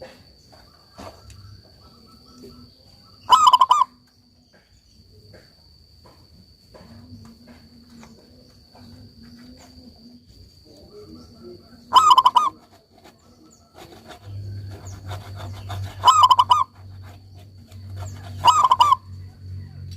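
Local zebra dove (perkutut) singing: four short phrases of rapid staccato cooing notes, with pauses of several seconds between them.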